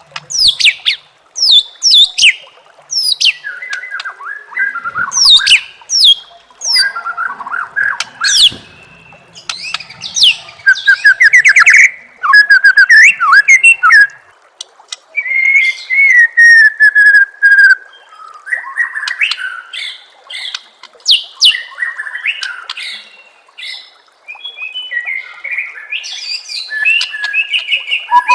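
White-rumped shama singing a fast, varied song of sharp downward-sweeping notes, rapid trills and whistles, with short pauses between phrases; a longer falling whistle comes about halfway through.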